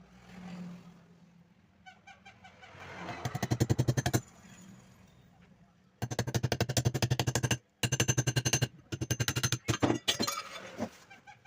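Fast, even mechanical rattle of about eleven clicks a second, in four bursts of one to two seconds, while the rear cover of a table fan motor is being fitted back on.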